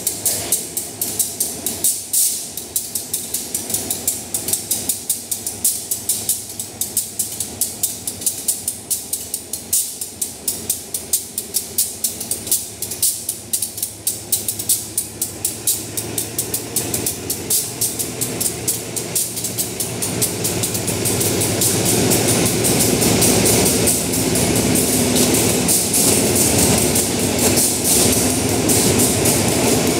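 Diesel-hauled passenger train (SRT Class GEA locomotive and coaches) pulling slowly out of the station. Its wheels click rapidly over rail joints and points. About twenty seconds in, the sound grows into a louder, steady rumble as the coaches roll by close.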